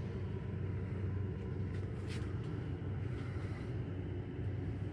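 12-volt 36-inch ceiling fan running with a steady low hum.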